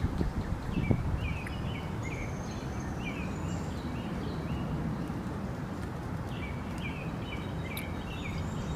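Small birds chirping in short repeated calls over a steady low rumble of outdoor noise, with two short knocks within the first second.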